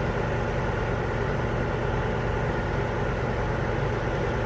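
A vehicle engine idling steadily: an even, low hum that does not change.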